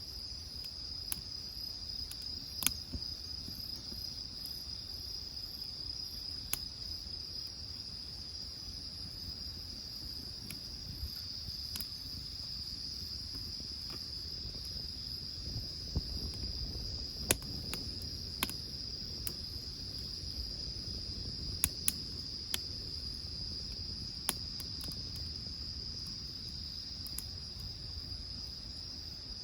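Insects trilling steadily at one high pitch, with scattered sharp crackles and pops from a burning wood fire over a low rumble.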